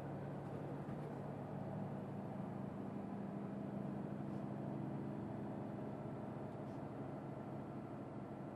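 Hino Blue Ribbon city bus under way: its engine runs steadily with a low hum over road noise.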